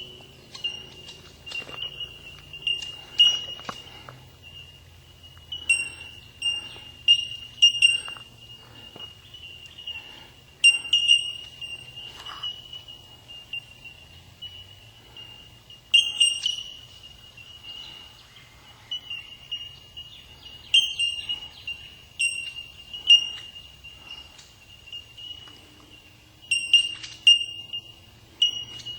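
Bellbirds calling in chorus: an almost unbroken run of ringing, bell-like notes at one pitch, with clusters of sharper, louder pings every few seconds.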